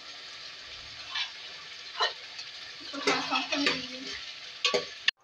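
Beef and tomato pieces sizzling as they fry in oil in a metal pot, while a spoon stirs them, scraping and knocking against the pot about half a dozen times.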